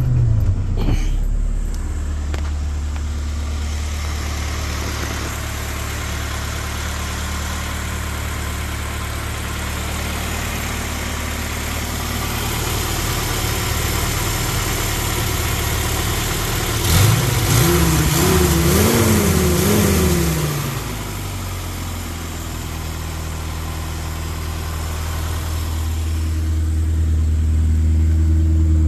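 1959 Morris Minor's 948 cc four-cylinder A-series engine, heard from the engine bay, catching at the start and settling into a steady idle. About two-thirds of the way through the revs are blipped up and down several times, then it drops back to idle.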